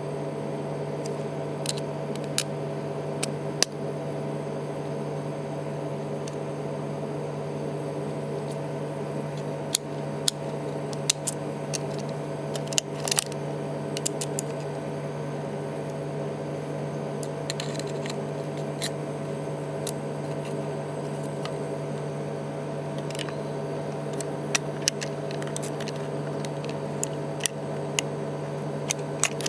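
Scattered small, sharp clicks and taps of tools and fingers on the parts of an iPhone 3GS being worked on, a few a second at the busiest, over a steady low electrical hum.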